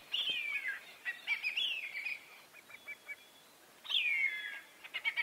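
Bird calls: a long falling whistle near the start and another just before the end, with warbling phrases and runs of short, quick notes between and after them.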